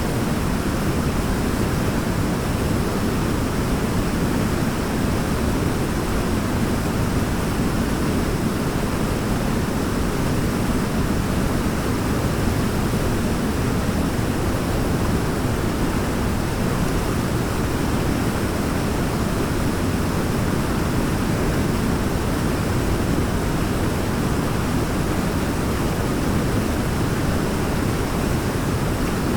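A waterfall rushing steadily: an even, continuous noise, heaviest in the low range, with no change in level.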